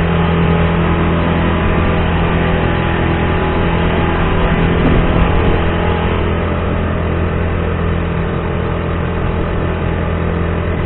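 Honda GX35 35cc four-stroke kayak outboard engine running steadily at about half throttle, just putting along at cruising speed.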